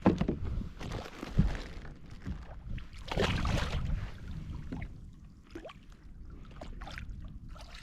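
Water splashing and sloshing beside a kayak, with a few light knocks; the loudest splash comes about three seconds in.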